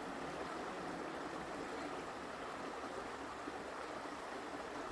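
Forest creek water flowing with a steady, even rush.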